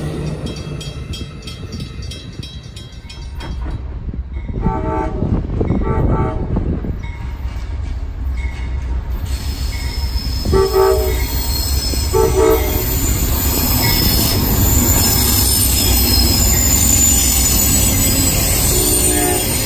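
Amtrak passenger train approaching and passing: the locomotive's multi-note air horn sounds in short blasts, two together about five seconds in, two more between ten and thirteen seconds, and one near the end. Under the horn, the diesel locomotive and double-deck Superliner cars rumble by on steel wheels that squeal on the rails.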